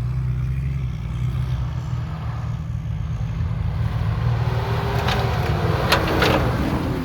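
Motocross motorcycle engine running steadily at low revs, with a faint pitch that rises and falls around five to six seconds in and a few sharp clicks at the same time.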